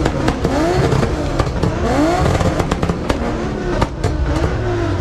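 A car engine revved again and again, each rev a quick rising sweep in pitch, with many sharp cracks and pops mixed in.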